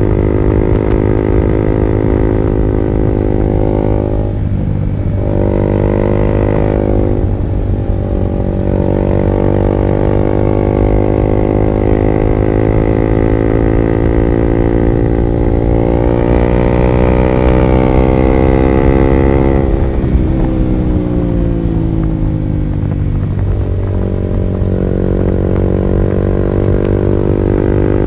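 Honda CB150R's single-cylinder engine through an R9 Alpha Series aftermarket exhaust, pulling under way. Its pitch drops sharply twice early on, climbs slowly for about ten seconds in the middle, then falls away twice more near the end.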